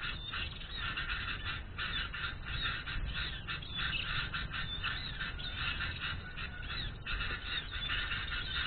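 Dense, continuous chattering of many bird calls, quick overlapping chirps with no pause.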